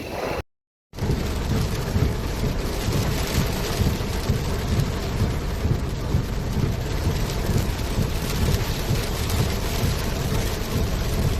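Heavy rain pouring during a summer thunderstorm: a dense, steady wash with a strong low rumble underneath. It cuts out briefly near the start.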